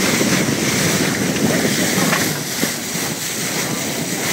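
Wind buffeting the microphone over the steady rush of water along the bow of a moving boat, a loud, even rushing noise.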